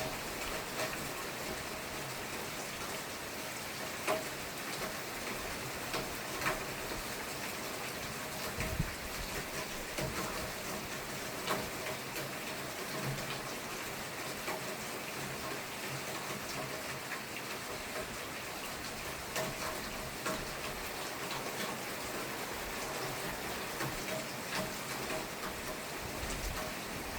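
Steady rain falling, with louder individual drops ticking now and then.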